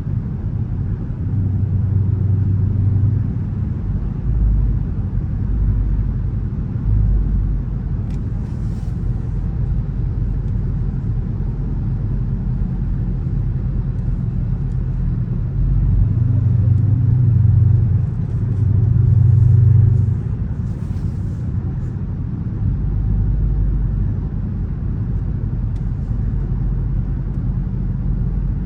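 Dodge Charger R/T's V8 and road noise while driving, a steady low rumble that gets louder for a few seconds just past the middle as the car is pushed harder.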